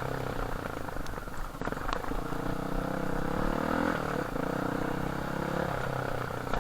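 Off-road dirt bike engine running while riding, its note holding steady and then shifting pitch a few times with the throttle. A couple of sharp knocks come about two seconds in.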